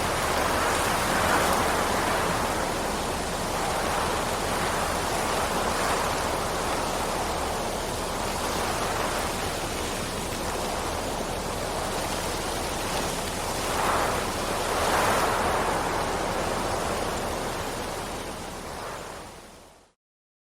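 Steady heavy rain, a dense even rush that swells and eases now and then. Near the end it fades out quickly into complete silence.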